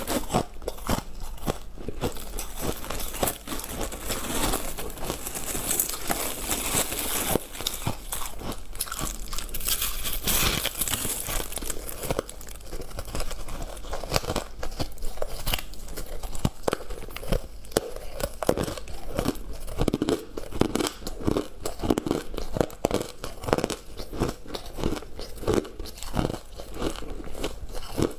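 Close-miked crunching and chewing of freezer frost and hard ice, a steady run of irregular crisp crackles and bites. The crunching is brighter and crispier in the first half and deeper and more like chewing in the second half.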